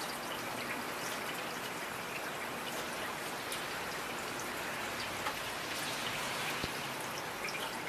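Steady rain falling, a continuous hiss with scattered individual drops hitting a surface.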